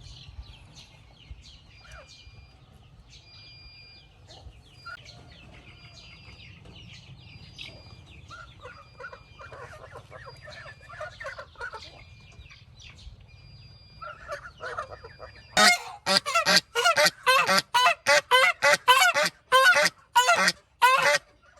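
Domestic waterfowl honking: quieter calls at first, then, about three-quarters of the way in, a loud rapid run of about a dozen honks at roughly two a second. Faint chirping comes before the loud run.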